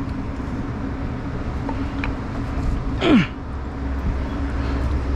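Steady low machinery hum with a few faint small clicks, and about three seconds in a short sound that falls quickly in pitch.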